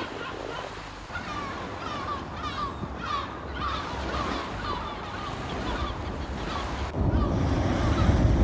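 Gulls calling over and over in short, quick cries, several birds at once, over the sound of wind and surf. About seven seconds in, wind on the microphone and the surf grow louder.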